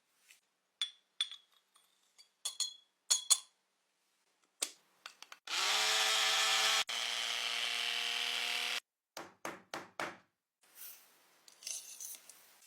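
Small electric motor whirring steadily for about three seconds, dropping a little in level partway through, with sharp clicks and taps before and after it and a soft rubbing near the end.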